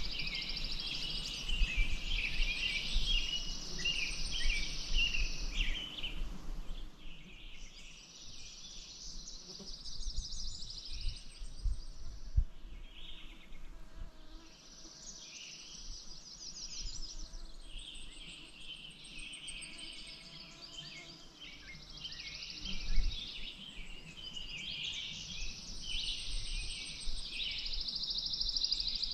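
Birds chirping and calling over one another, with long high buzzing trills that come and go every few seconds. A low rumble with a few soft low thumps runs beneath, one thump louder near the end.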